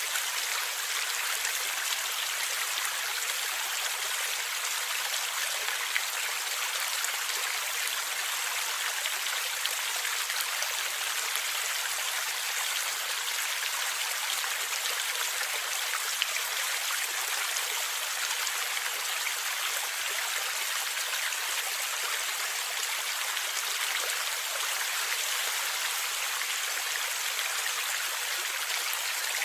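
Stream water flowing and gurgling steadily, an even rushing hiss with little low rumble, and a couple of brief clicks or splashes.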